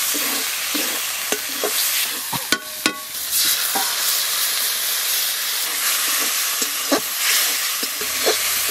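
Spice paste frying in oil in a metal kadai, with a metal spatula scraping and tapping the pan. About three seconds in, water is poured into the hot pan and the masala gives off a strong hissing sizzle that carries on while it is stirred.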